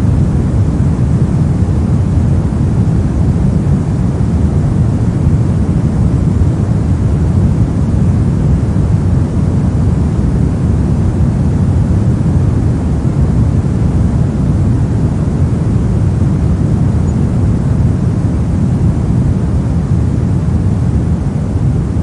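Pink noise: a steady, unchanging rushing hiss, heaviest in the low range and thinning toward the top.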